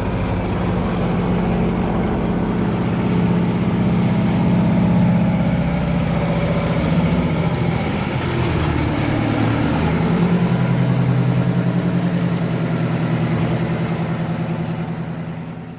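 Detroit Diesel truck engine running and being revved, its pitch climbing, dropping back and climbing again, then fading out near the end.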